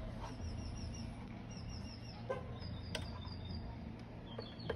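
Small birds chirping in quick runs of short high notes over a steady low hum, with a few light clicks.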